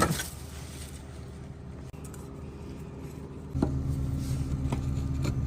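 A sharp knock, then the steady low hum of an air conditioner's outdoor unit running, which drops away and comes back about three and a half seconds in, with a few light clicks of tools on the pipe fittings.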